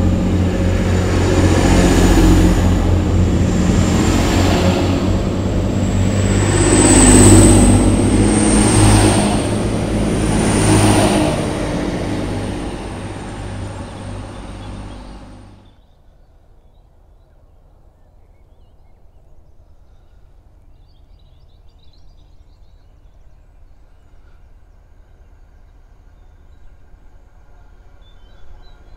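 Diesel multiple-unit passenger train running through the station at speed: a loud rumble of wheels on rail that swells about every two seconds as the coaches go by, with a steady high whine over it. About halfway through it cuts off suddenly to a faint low rumble of a distant train approaching.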